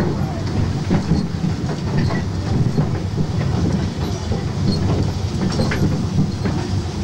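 Fort Wilderness Railroad passenger train running, heard from aboard its open coach: a steady low rumble of the rolling car with scattered light clicks of the wheels and running gear.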